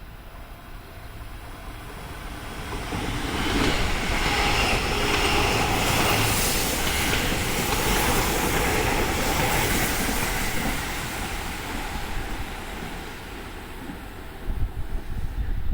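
Seibu 001 series Laview limited express electric train passing through a station without stopping. Its wheel and running noise builds about three seconds in, stays loud until about ten seconds, then fades, with uneven low thumps near the end.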